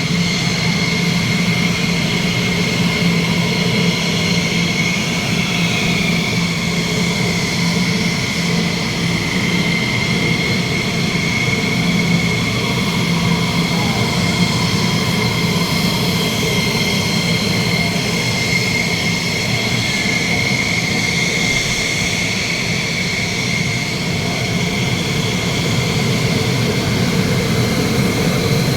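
Jet engine running steadily with a high whine over a deep rumble, its pitch dipping slightly about six seconds in.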